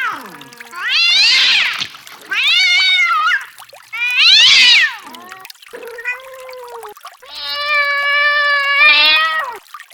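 Domestic cat meowing repeatedly: about five separate meows, most rising and falling in pitch, the last one long and held level for about two seconds.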